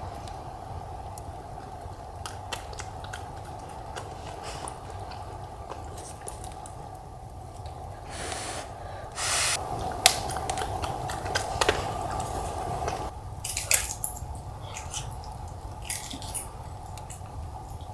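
Close-up eating of roasted sweet potato: soft chewing with scattered small clicks, over a steady low hum. Several louder rustling bursts come about halfway through.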